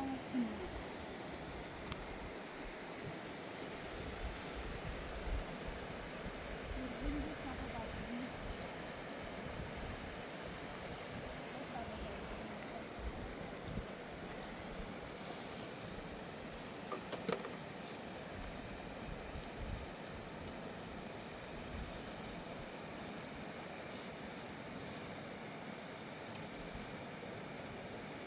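A cricket chirping steadily in a high, even rhythm, about three chirps a second.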